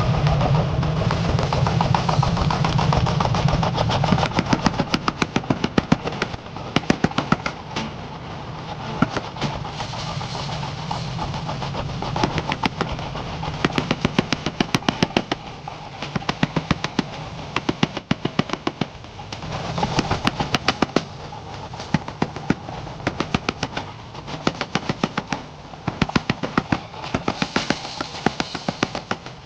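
Rapid, repeated hammer strikes on a steel ball bearing being forged into a blade, several blows a second in long runs. A steady low hum runs under the first few seconds.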